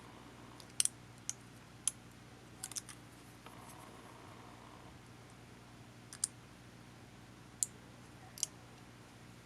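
Irregular light clicks and taps of small plastic and metal parts and tools being handled while a camcorder is taken apart. There are about eight sharp ticks with uneven gaps, most of them in the first three seconds, and a faint steady hum lies underneath.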